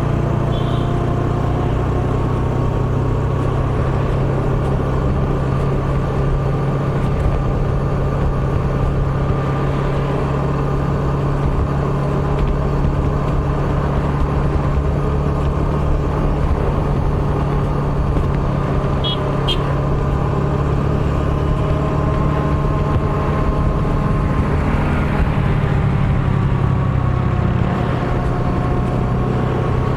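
Motor scooter engine running at a steady cruising pace, its pitch drifting gently up and down with the throttle, over continuous road and wind noise.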